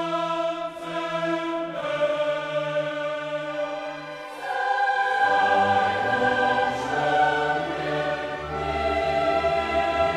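Background choral music: a choir singing long held chords, swelling louder about five seconds in.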